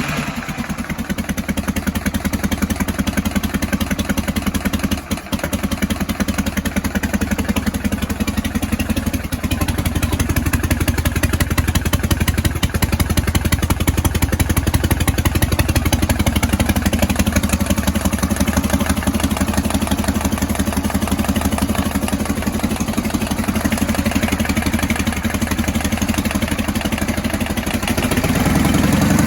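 1978 Harley-Davidson FLH V-twin running at a steady, pulsing idle just after starting. It gets louder near the end.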